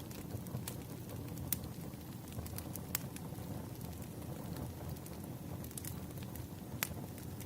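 Campfire burning: a steady low rumble of flames with scattered sharp crackles and pops, a few of them louder than the rest.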